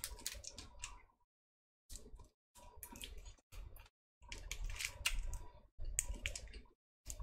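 Chewing and handling a chocolate bar in its plastic wrapper: short crackly bursts of crunching and wrapper rustle, broken by brief silent gaps.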